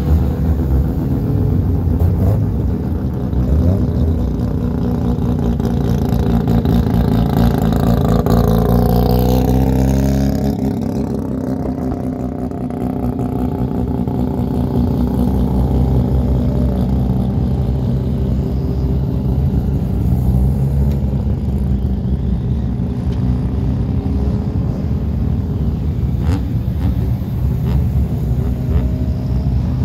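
Mazda rotary engines running as a line of cars drives slowly past one after another. About ten seconds in, one passes close by, its engine note dropping in pitch as it goes, and the next cars follow on with steady engine sound.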